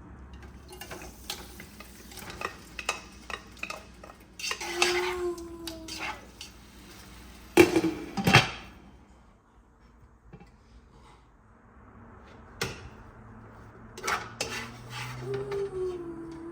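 Kitchen utensils and dishes clinking and clattering, with a run of light clicks over the first few seconds and two louder knocks about eight seconds in.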